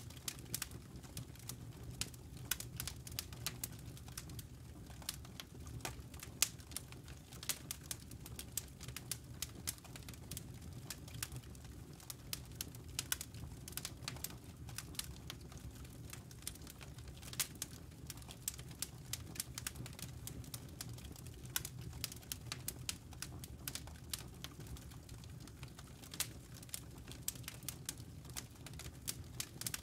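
Logs burning in a fireplace: dense, irregular crackles and pops over a low, steady background of the fire.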